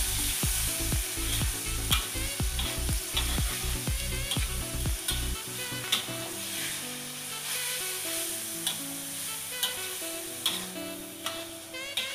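Pork sizzling in a steel wok as it is stir-fried, with a metal spatula scraping and clinking against the wok every second or so. Background music plays under it; its low beat drops out about five seconds in, leaving held notes.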